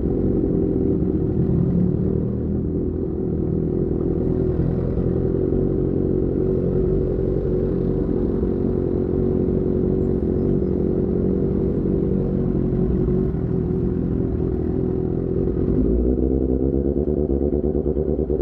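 Sportbike engine running through an aftermarket AR GP1R exhaust while riding, a steady, loud exhaust note. The note shifts near the end.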